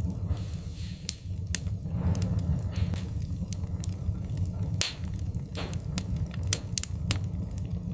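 Wood fire crackling in a fireplace: irregular sharp pops and snaps, with a few softer hissing flares, over a steady low rumble.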